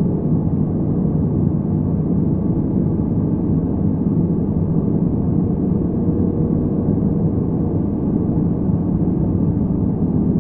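Electric fan running steadily, muffled as if heard underwater: a constant low, even whir with the highs cut away.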